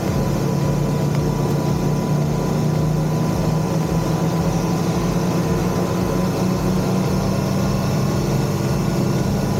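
Motorcycle engine running steadily at an even pitch under a constant hiss of wind and road noise.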